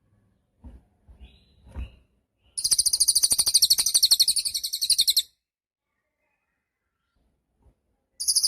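A cililin singing: a loud, very fast, high-pitched trill lasting about two and a half seconds, then a second short trill starting near the end, with a few faint soft knocks before the first.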